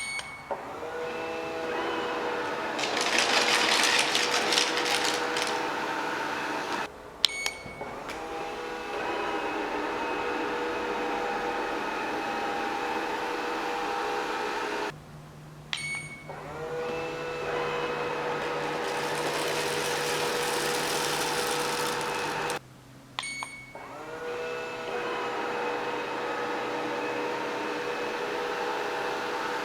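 SeeBest C561 robot vacuum cleaner running: a steady motor whine over a brushing hiss that swells twice. The sound breaks off briefly three times, and each time the motor comes back with a short rise in pitch as it spins up.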